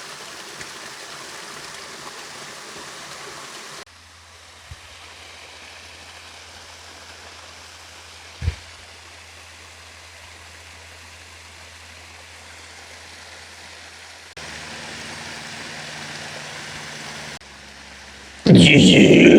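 Creek water running over rocks and a small waterfall, in several short takes that cut abruptly one to the next, with a single knock about eight and a half seconds in. Near the end a sudden loud call, much louder than the water, breaks in.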